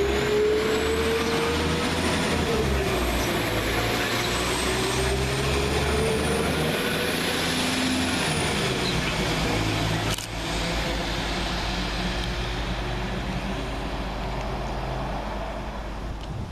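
Northern Class 195 diesel multiple unit pulling away, its underfloor diesel engines running under load with a whine from the drive that rises and falls in pitch. About ten seconds in the sound breaks off abruptly, and a steadier, lower engine drone follows.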